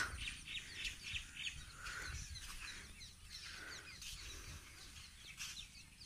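Faint birds chirping and calling, with a quick run of repeated high notes in the first second and a half and scattered short chirps after.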